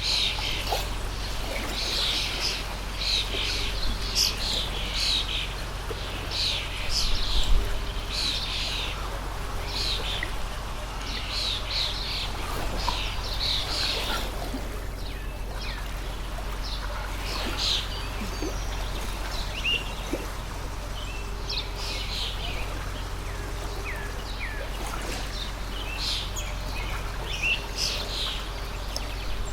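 Many small birds chirping in a dense, overlapping chorus of short high calls over the steady rush of a flowing stream. A brief low thump comes about seven and a half seconds in.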